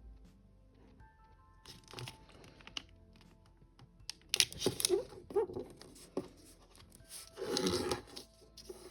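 A sheet of origami paper being handled and folded: crinkling rustles, then several sharp swipes as the crease is pressed flat, loudest from about four seconds in. Faint background music with held notes at the start.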